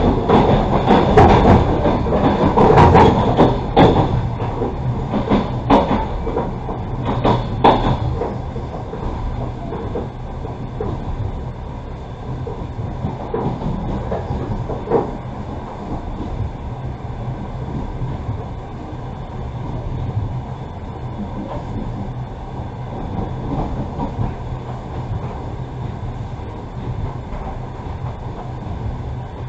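Passenger train carriage rolling along the track, heard from inside the coach: wheel-and-rail rumble with a run of sharp knocks and clatter for the first eight seconds or so, then a steadier, quieter rolling sound.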